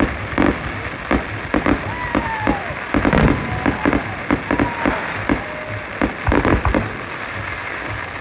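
Fireworks going off in quick, irregular succession: many sharp bangs and pops, with a dense cluster of them about three seconds in.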